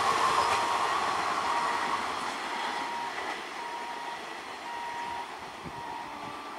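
EMU electric local train running away along the track, its rumble fading steadily as it recedes.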